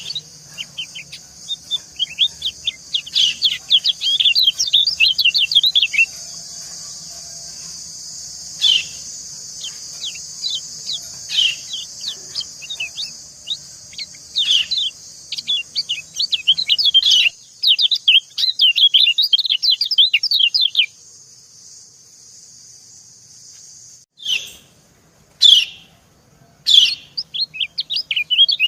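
White-eyes calling in quick runs of short, high chirps, the female's "ciak" call answered by a male, coming in bursts with short pauses. Behind them runs a steady rushing of falling water, which cuts out about 21 seconds in and returns about three seconds later.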